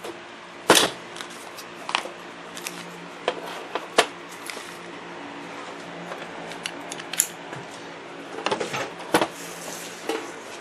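Small fuel-pump parts and tools being picked up and set down on a workbench: scattered clicks and taps, the sharpest a little under a second in, at about four seconds and at about nine seconds, over a steady low hum.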